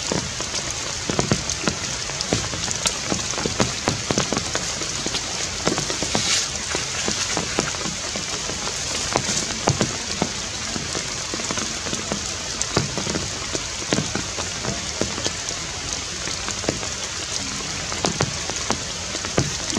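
Steady rain falling on forest trees and leaves, with many small separate drop ticks through it.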